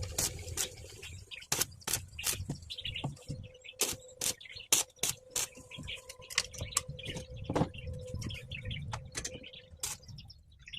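Small birds chirping in quick, irregular short notes, over a faint steady hum.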